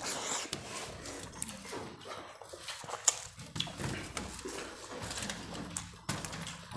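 People eating egg curry and rice: wet chewing and mouth smacking, with scattered small clicks.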